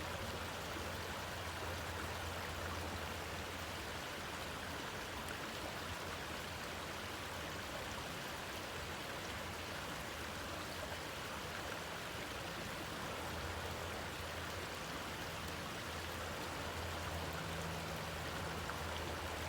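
Waterfall rushing steadily, with a low hum underneath that swells and fades.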